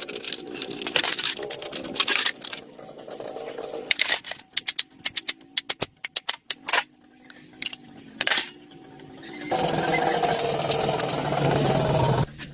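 Repair work with metal tools: scattered clicks and knocks, then a quick run of clicks. Near the end a small motor, likely a power tool, runs steadily for about three seconds and then stops.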